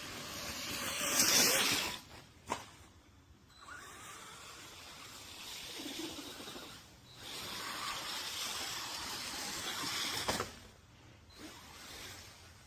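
1/14-scale brushless RC truck driving off-road: hissing tyre and dirt noise in stretches of a few seconds with short pauses between them, and a couple of sharp knocks, one about two and a half seconds in and one near the end.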